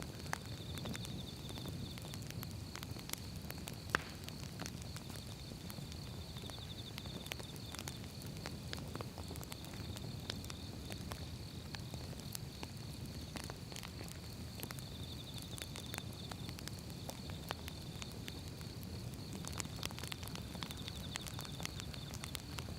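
Firewood logs burning with a steady low rush of flame and frequent sharp crackles and pops. One pop about four seconds in is louder than the rest.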